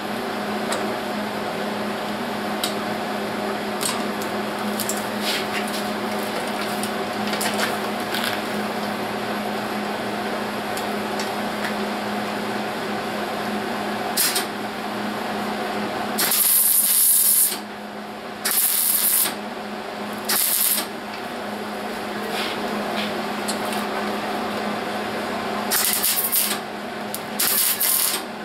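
Welder laying spot welds on sheet metal, a steady crackling buzz for about the first fifteen seconds. Then come five short blasts of compressed air, the first about a second long, cooling the welds so the metal doesn't overheat.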